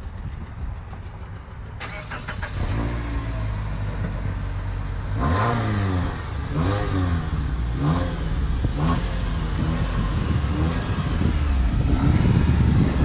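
2016 Mitsubishi Lancer GT's 2.4-litre four-cylinder engine idling through its single exhaust, revved in several short blips that rise and fall back to idle.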